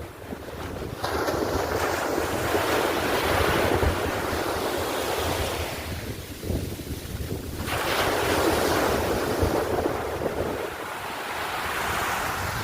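Ocean surf washing onto a beach, swelling and fading in long waves, with wind buffeting the microphone.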